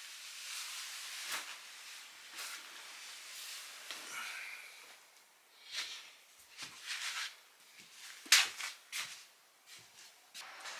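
Scattered small clicks and knocks, like objects being handled, over a faint steady hiss; the sharpest knock comes about eight seconds in.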